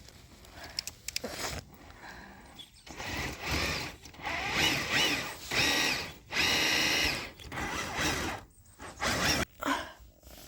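Traxxas TRX6 Hauler RC crawler's electric motor and gear drivetrain whining in a series of short throttle bursts, several of them starting and stopping from about three seconds in.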